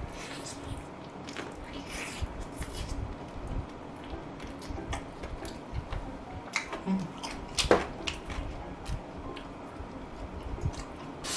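Close-miked chewing and biting of fried chicken drumsticks, with scattered short wet mouth clicks and crunches.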